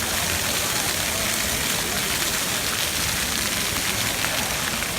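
Steady hiss of background noise that stays even throughout, with no distinct event standing out.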